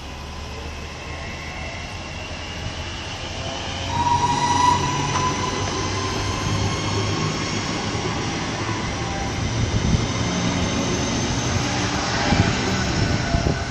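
Class 323 electric multiple unit pulling away, its traction motors whining in several tones that climb slowly in pitch as it gathers speed, over a low rumble. It gets louder about four seconds in.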